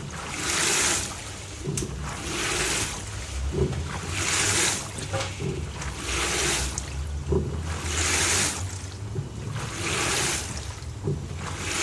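LG TurboDrum WT-R852 top-loading washing machine agitating a full load of bedding in water. The churned water gives a swoosh about every two seconds as the wash action reverses, over a steady low motor hum.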